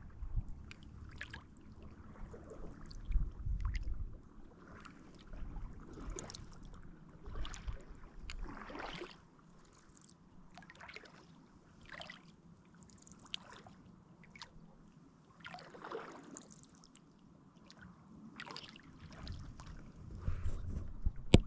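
Kayak paddle strokes: the blades dipping into the lake and splashing, about one stroke every second or so, with water trickling off the paddle. Low rumbles come in the first few seconds and again near the end.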